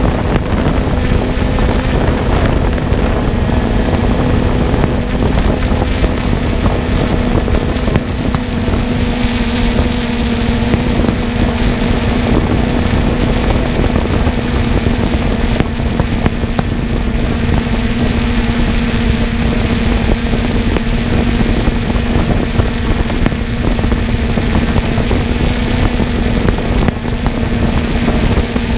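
Multirotor drone's motors and propellers humming at one steady pitch, over a constant rush of noise.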